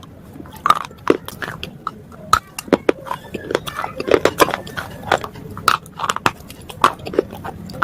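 Close-up biting and chewing of brittle slate bars: irregular sharp crunches and cracks, about two a second.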